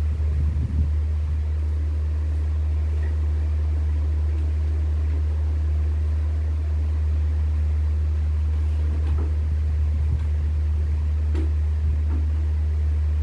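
Steady low hum, with a few faint clicks and light knocks over it.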